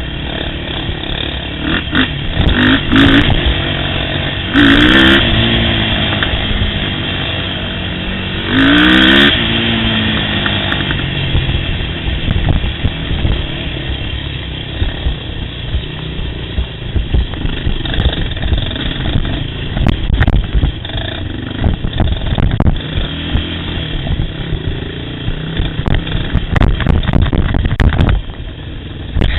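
Yamaha YFZ sport quad's engine running under load on a trail ride, revving up hard twice, about five and nine seconds in, with many low thumps from the rough ground.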